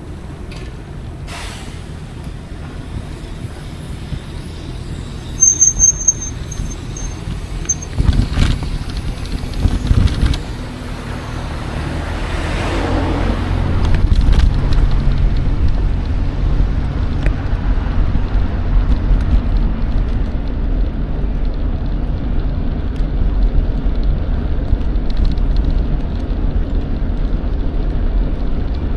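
Low rushing rumble of wind on the microphone and tyre noise from an electric mountain bike on the move, growing louder from about twelve seconds in. A short run of high chirps sounds around six seconds in.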